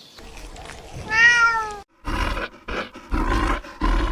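A cat meows once about a second in, a single call sliding slightly down in pitch. After a short break, a run of loud, rough, rasping animal calls begins and keeps going.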